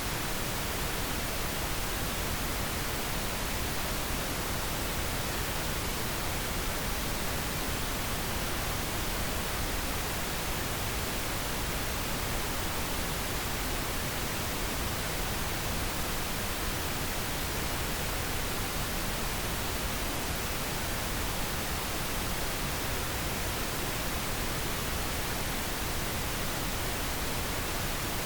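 Steady pink noise: an even, unchanging hiss across all pitches, with no tones or events.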